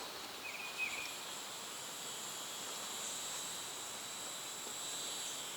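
Steady high-pitched drone of insects calling in the lakeside woods, with one brief chirp about half a second in.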